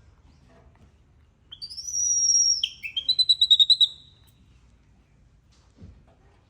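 A bird singing one high, whistled phrase lasting about two and a half seconds: a few gliding notes, then a fast trill.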